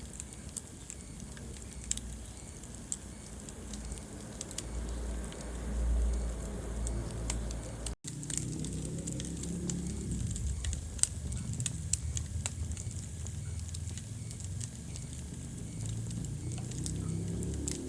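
Wood fire crackling in a fireplace, with scattered sharp pops over a low rumble of flames. The sound cuts out for an instant about halfway through.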